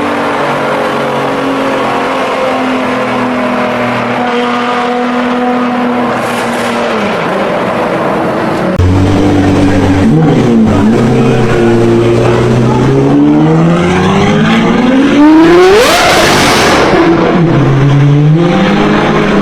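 High-performance V12 sports car engine running at a fairly steady note, then, after a sudden jump in loudness about halfway through, revving hard with the pitch climbing steeply to a peak and falling away again.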